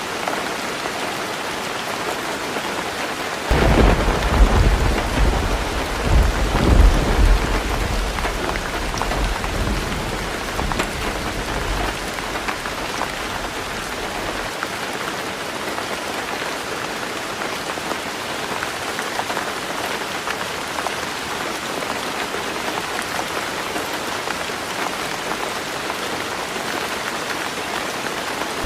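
Heavy rain drumming steadily on a tin roof. About three and a half seconds in, a clap of thunder breaks and rumbles low, swelling again a few seconds later before fading out.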